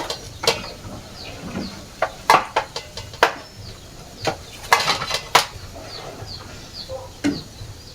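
Irregular sharp knocks and clatter of kitchen utensils, with chickens clucking and short high chirps repeating in the background.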